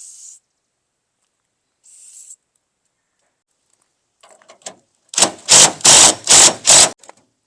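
Power tool run in about five short, loud bursts, loosening a tailgate hinge bolt, with a few light clicks just before.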